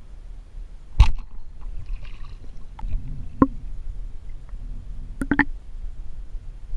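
Water movement with a low rumble, broken by sharp knocks and clicks: a loud one about a second in, another past the middle, and a quick cluster near the end.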